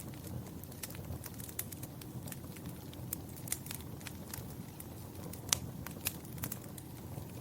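Wood fire crackling in a fireplace: irregular sharp pops and snaps over a low steady rumble of the flames, with one louder pop about five and a half seconds in.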